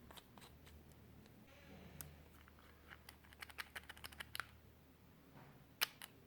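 Faint, sharp clicks and taps of small hard objects: a few scattered ones, a quick run of about a dozen between three and four and a half seconds in, and one louder click near the end.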